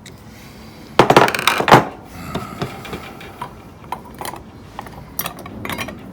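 Small metal fan parts clattering onto a hard work surface in a short loud burst about a second in, followed by scattered lighter clicks and taps as the parts are handled.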